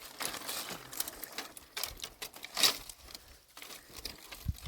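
Dry brush, twigs and leaves crunching and crackling with irregular small snaps, one louder snap a little past halfway.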